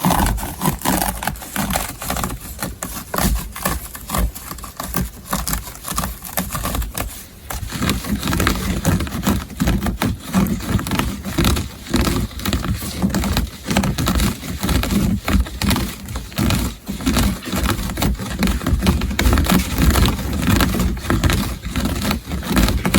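Rapid, continuous scratching on a textile surface, with stroke after stroke in quick succession. It turns fuller and heavier about eight seconds in.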